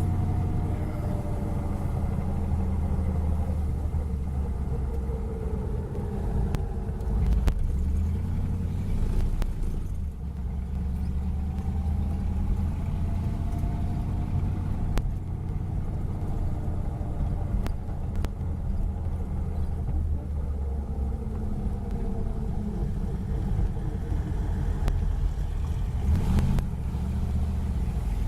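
Ford Fairlane 500 car engine running steadily on the move, a continuous low rumble, with the engine pitch sliding up and down a few times as the revs change.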